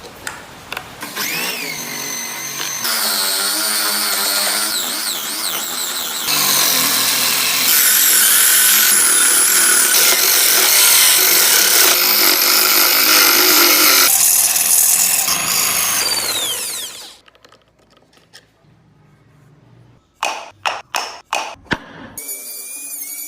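Power tool working on wood, its motor pitch wavering under load for about sixteen seconds, then stopping. After a short pause come several sharp short sounds, and near the end a small high-speed tool starts with a high whine.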